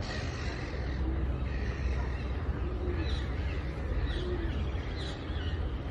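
A few short, high, falling bird chirps from about three seconds in, over a steady low rumble.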